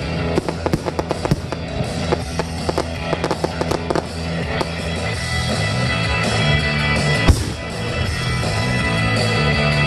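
Aerial fireworks bursting and crackling in a rapid run of bangs over music. The bangs thin out after about four seconds, with one loud bang about seven seconds in.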